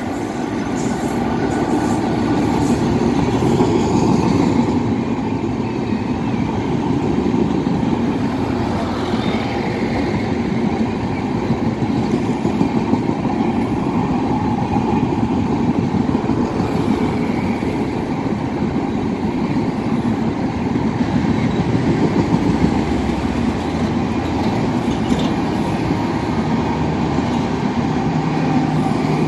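An express train hauled by a WAP-4 electric locomotive passing non-stop through a station: first the locomotive, then a long rake of coaches, making a loud, steady noise of wheels on the rails that builds over the first few seconds and holds as the coaches go by.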